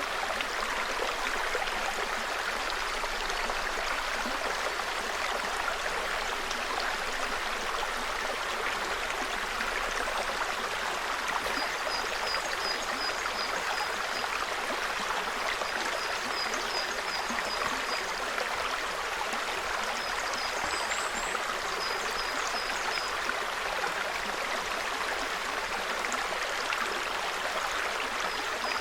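Small forest brook babbling steadily over its bed. Several times from partway through, a bird gives short runs of quick, high repeated chirps over the water.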